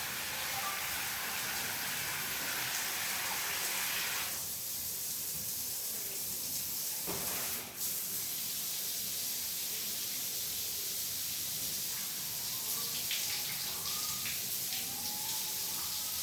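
Steady rushing hiss of water running through a plumbing line or tap, thinning slightly about four seconds in, with a single knock near the middle.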